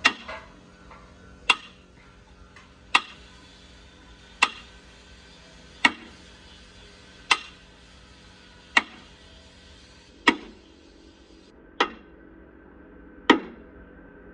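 Hammer striking metal at a steady pace, about ten blows one and a half seconds apart, each ringing briefly.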